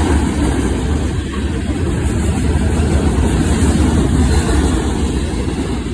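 Norfolk Southern freight train's frac-sand hopper cars rolling past close by: a loud, steady, deep rumble of wheels on rail.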